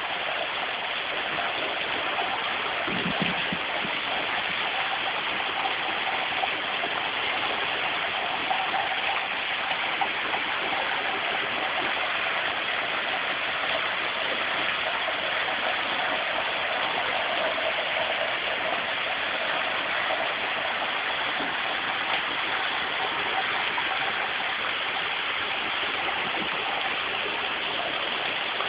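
Small waterfall running: a steady, even rush of falling water.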